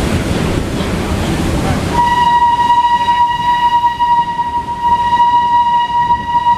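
A rushing hiss, then about two seconds in a locomotive whistle starts: one long, steady, high note that carries on.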